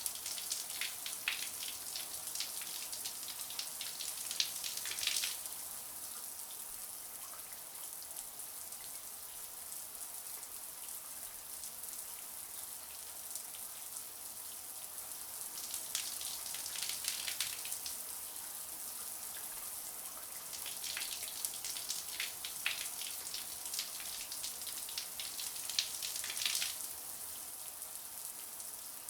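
Shower water running, a steady high hiss of spray, with three spells of sharper spattering droplets.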